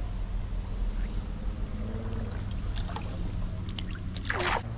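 Creek-side outdoor ambience: a steady high insect trill over a low rumble, with a few faint clicks around the middle and one quick sound sweeping sharply downward in pitch near the end.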